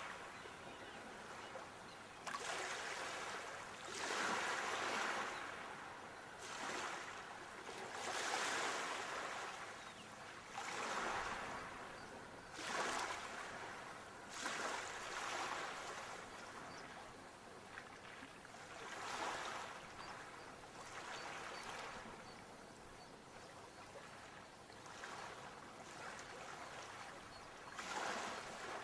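Sea waves washing onto the shore, surging and falling back every few seconds.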